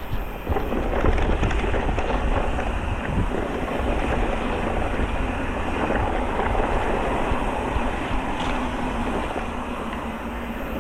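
Wind rushing over the microphone of a moving electric mountain bike, with a steady rumble from the tyres and a few faint rattles and clicks from the bike.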